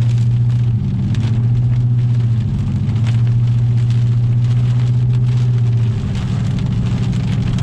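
Inside a moving vehicle's cab: a steady low engine and road drone, with rain ticking irregularly on the roof and windshield.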